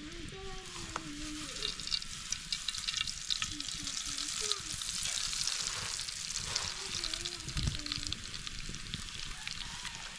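Food frying in hot oil in a pan: a steady sizzle with many small crackles and pops.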